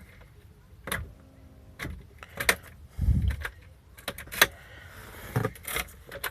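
A car's starter giving sharp single clicks, several times at irregular intervals, with keys jingling as the ignition key is turned. The engine does not crank, the no-start click. A dull low thump comes about three seconds in.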